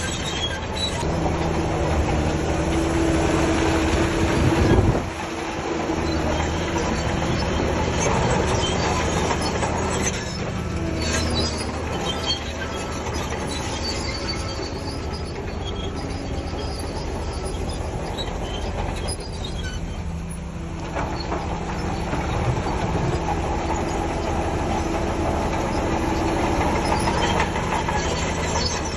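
Crawler bulldozer working: its diesel engine runs steadily under load while the steel tracks clank and squeal. The squeal is strongest in the first few seconds and again near the end. The loudness dips suddenly about five seconds in.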